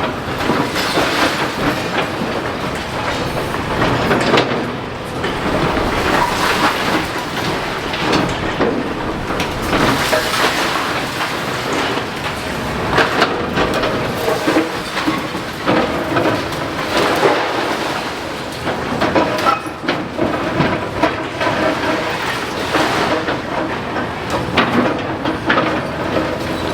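Building demolition by excavator: a continuous clatter of crunching and clanking masonry and debris, with many sharp knocks.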